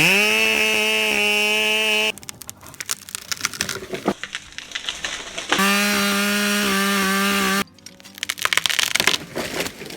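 Husqvarna 572 XP two-stroke chainsaw revving up and running at full throttle for about two seconds, then cutting off suddenly into a run of sharp cracking and snapping wood. The saw runs flat out again for about two seconds near the middle and cuts off, followed by more cracking and snapping.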